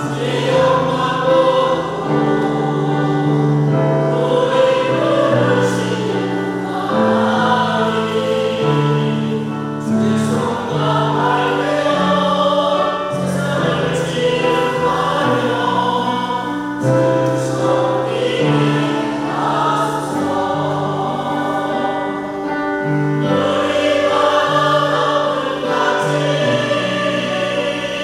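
A church choir singing a gospel hymn in several parts, holding long notes that change every second or so.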